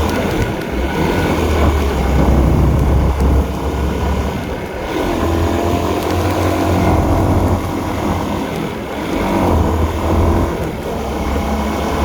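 Honda CB150R's single-cylinder engine running while riding, its note swelling and easing with the throttle every few seconds, under steady wind and road noise.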